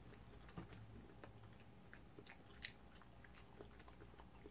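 Faint chewing of a person eating, with a few short, soft mouth clicks, the clearest about two and a half seconds in, over near silence.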